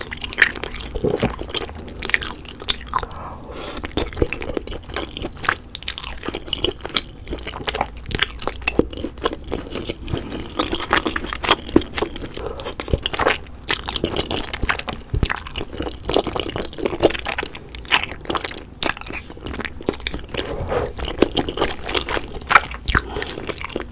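Close-miked chewing of chewy glass noodles in a cheesy rose cream sauce: a run of soft wet smacks, squishes and clicks of the mouth, going on without a break.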